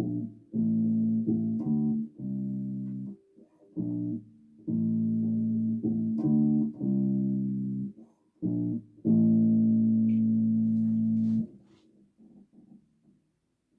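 Bass guitar played solo: a string of plucked notes, several held about a second, ending on one long note of about two and a half seconds that cuts off sharply. A few faint short plucks follow near the end.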